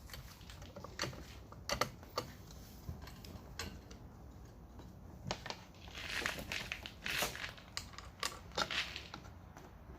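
Scattered clicks and knocks of parts being handled while a pull-start (recoil starter) assembly is fitted back together, with a rustling, crinkling stretch about six to seven seconds in.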